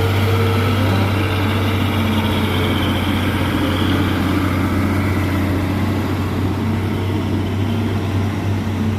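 Heavy diesel truck engine running steadily, with a deep constant hum.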